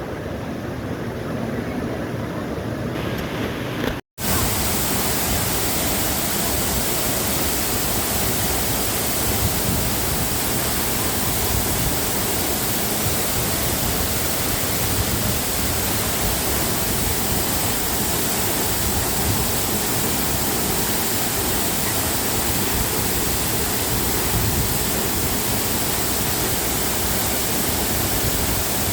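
Rushing water of a waterfall, a loud steady hiss with no pattern in it. The sound drops out for an instant about four seconds in and comes back louder and brighter.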